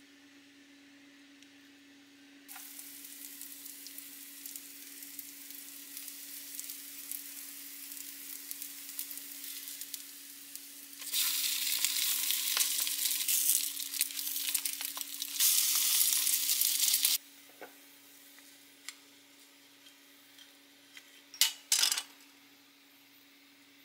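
Zucchini-and-shrimp pancake batter sizzling in hot oil in a divided frying pan. The sizzle starts a couple of seconds in, grows much louder at about eleven seconds as the pancakes are turned with a wooden spatula, and cuts off suddenly at about seventeen seconds. Near the end come a few sharp clinks.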